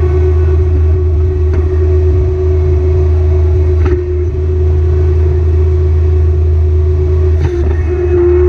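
Kubota BX Series sub-compact tractor's diesel engine running steadily under load, a low drone with a steady whine over it. A few short knocks or clanks come through, one about a second and a half in, another near four seconds, and one more near the end.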